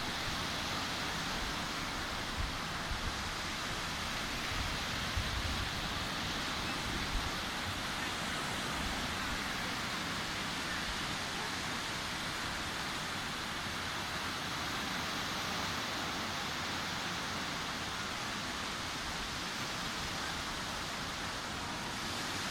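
Sea surf washing onto a beach, heard as a steady, even rushing noise without distinct separate wave crests. A few brief low thumps come in the first seven seconds or so.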